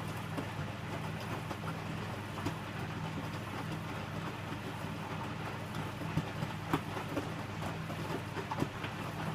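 Electrolux W455H commercial washing machine running mid-wash: a steady low motor hum with a wash-water haze over it. Scattered clicks and knocks from the drum come more often about six to nine seconds in.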